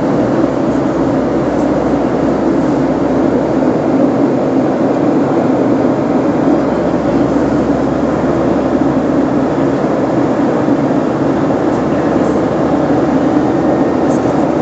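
Steady, loud engine and airflow noise of a passenger airplane, heard from inside the cabin.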